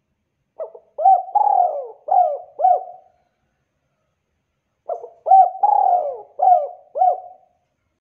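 Spotted dove singing its cooing song twice: two matching phrases a little over four seconds apart, each of about five notes with a longer drawn-out note in the middle.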